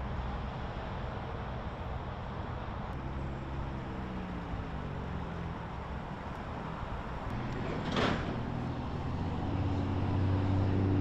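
Outdoor street sound with motor vehicles passing: one engine's pitch falls away a few seconds in, a single sharp knock comes about eight seconds in, and another engine grows louder near the end.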